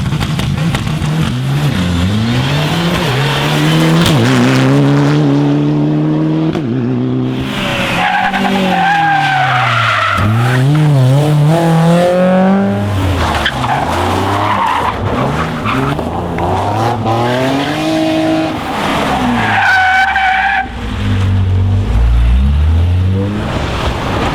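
Rally car engines revving hard, their pitch climbing and dropping again and again as they accelerate, shift and brake, with tyre and skid noise under the engine note.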